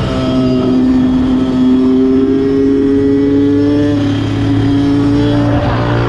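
Kawasaki dirt bike engine running under acceleration, its note climbing slowly for about five seconds, then dropping near the end.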